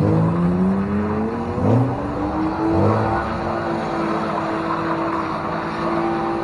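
Car engine accelerating through the gears: the pitch rises, drops at a shift about one and a half seconds in, rises again, drops at a second shift near three seconds in, then holds steady.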